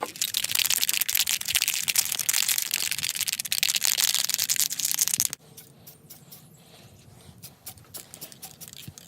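Aerosol spray paint can spraying a coat of paint: a steady hiss that cuts off suddenly about five seconds in, followed by a few faint clicks.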